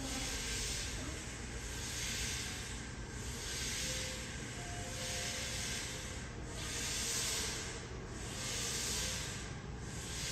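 Subway station platform ambience: a steady hiss that swells and fades every second or two, over a low hum.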